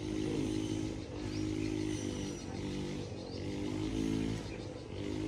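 Motor vehicle engine running, its pitch shifting up and down every second or so.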